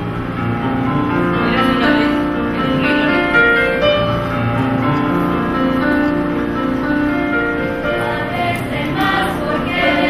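Stage musical cast singing together as a choir over musical accompaniment, with held, sustained notes.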